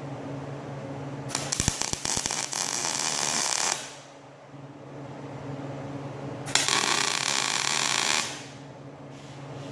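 Arc welder laying two tack welds on steel link arms: a crackling, sizzling arc for about two and a half seconds starting a second in, then again for just under two seconds after the middle. A steady electrical hum runs underneath.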